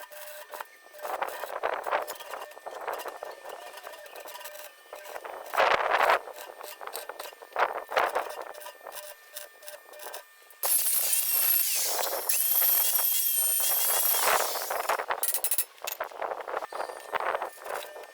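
Workshop handling sounds: tools and metal parts clinking and knocking, then a small power tool running with a steady high whine for about four seconds past the middle.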